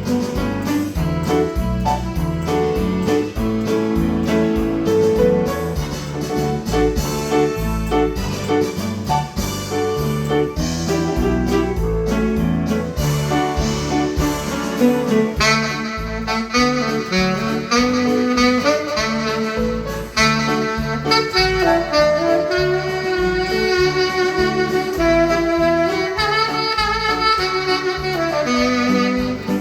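Tenor saxophone playing a slow melody over piano accompaniment. The saxophone line stands out clearly from about halfway through.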